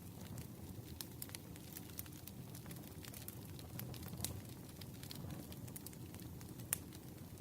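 Wood campfire burning: a steady low rush under scattered sharp crackles and pops from the burning logs, with one louder pop near the end.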